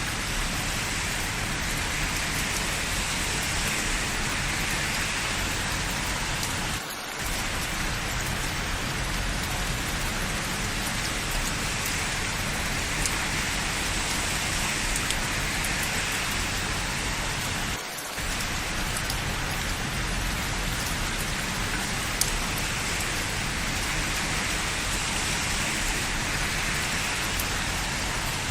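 Steady, dense rain falling, with scattered individual drop ticks. The sound dips briefly twice, about 7 and 18 seconds in.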